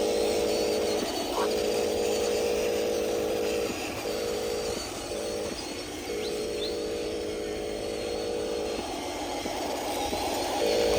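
Electric motor and gears of a radio-controlled construction model whining in runs of under a second to about three seconds, stopping and starting again several times.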